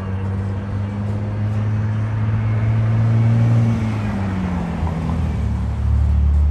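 Diesel freight locomotive engine droning low and steady as a freight train rolls past below, its pitch dropping about four seconds in.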